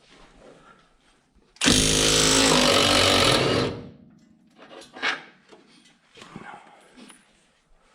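A handheld power tool runs hard for about two seconds, then winds down. Light metallic knocks and clinks of hand tools and parts follow.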